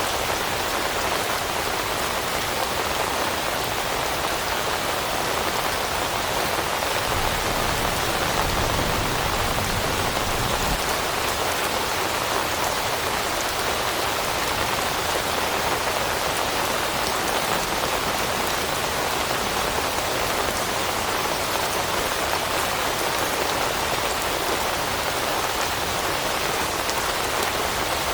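Steady rain falling and pattering, presented as rain on forest leaves. A brief low rumble swells and fades between about seven and eleven seconds in.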